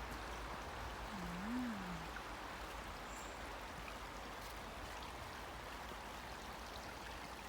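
River flowing: a steady rush of running water. A short low hum rises and falls about a second in.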